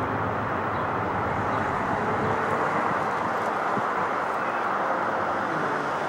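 Boeing 747 jet engines heard from the ground as a steady rushing jet noise with no clear pitch.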